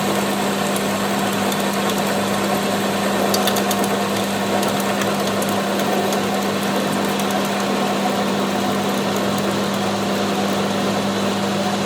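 An engine running steadily with a constant hum, with a few light clicks about three to five seconds in.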